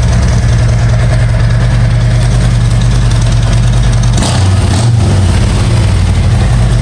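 Harley-Davidson Road Glide's Milwaukee-Eight 107 V-twin idling steadily through aftermarket Rinehart 4-inch slip-on mufflers, a loud, even exhaust note, with a brief scuffing noise about four seconds in.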